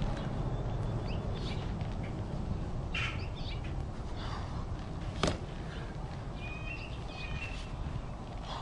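Outdoor ambience: birds chirping a few times, one giving a short whistled note near the end, over a steady low rumble. One sharp click about five seconds in.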